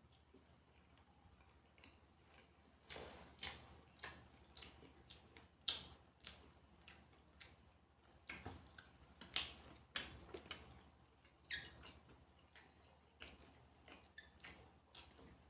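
A person chewing and crunching food close to the microphone: irregular crunches and wet mouth clicks, a few louder bites among them.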